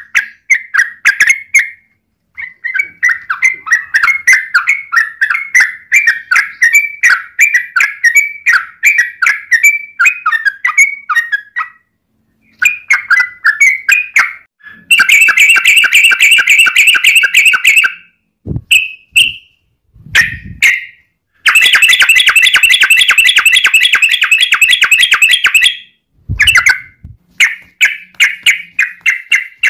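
Sooty-headed bulbul (trucukan) song: quick bubbly notes around a fixed pitch in short phrases, broken by two long, dense runs of rapid chattering, the long 'ropel' strings of an excited, fighting bird. A few brief low thumps fall between the runs.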